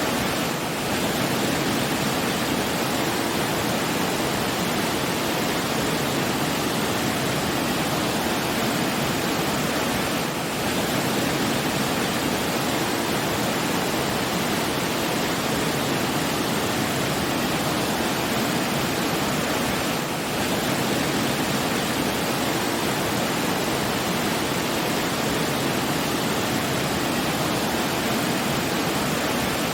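Steady rushing water, an even unbroken hiss with no distinct splashes or tones, dipping slightly in level for a moment about every ten seconds.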